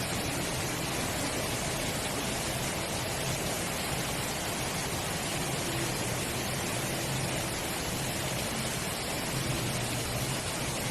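Steady rain falling, an even hiss with no breaks, over a faint low hum.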